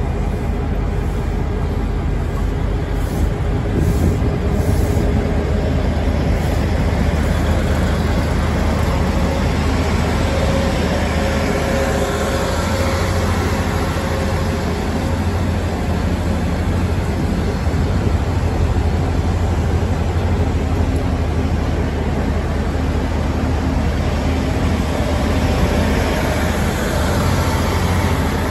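Diesel multiple-unit Tze-Chiang express train running slowly along the platform, its engines giving a steady low drone under a wash of rolling and running noise.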